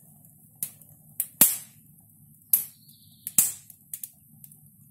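Conifer firewood burning in a fireplace, popping and crackling: about seven sharp, irregular pops, the loudest about one and a half seconds in.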